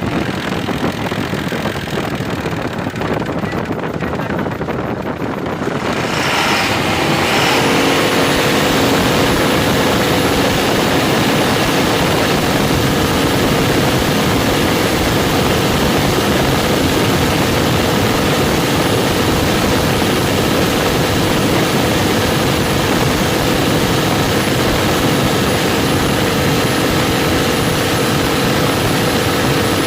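Ashok Leyland diesel engine running steadily just after start-up. About seven seconds in it grows louder and a steady whine joins in, then holds.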